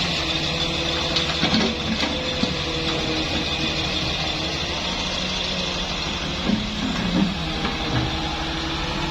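Excavator's diesel engine running steadily, with a few short knocks and clunks about two seconds in and again near the end.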